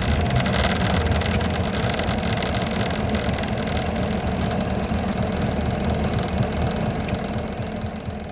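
Isuzu Gala coach's V-type diesel engine running under way, heard from inside the bus, with a steady low drone and road noise that slowly grows quieter toward the end.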